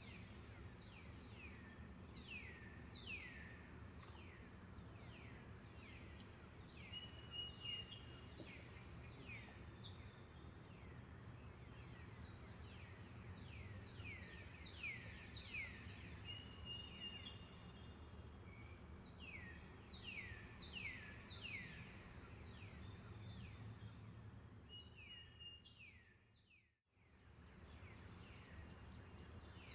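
Forest birds calling in many short falling chirps over a continuous high-pitched insect trill, with a low steady rush of the forest river beneath. The sound dips away to silence for about a second near the end, then returns.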